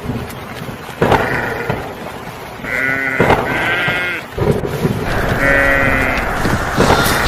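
Several drawn-out bleats from sheep or goats, each lasting about half a second to a second, over a steady low rumble. There are a couple of sharp knocks, about a second in and halfway through.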